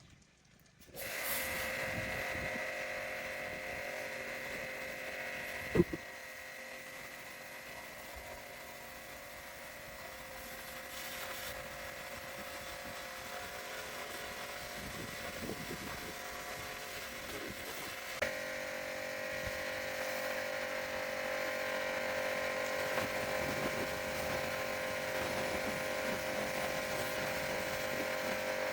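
A small electric power tool running steadily with a high whine. It starts about a second in, gives a sharp click about six seconds in, and its tone shifts a little about two-thirds of the way through.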